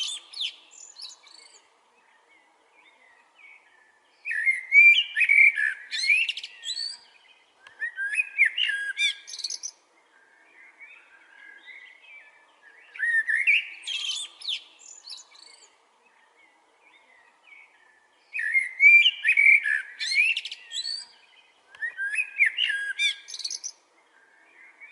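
A songbird singing, repeating a phrase of quick rising and falling notes about every four to five seconds, with softer chirps in between.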